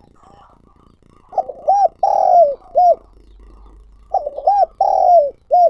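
Spotted dove calling: two cooing phrases, each two quick short coos, a long drawn-out coo and a final short coo, the second phrase starting about four seconds in.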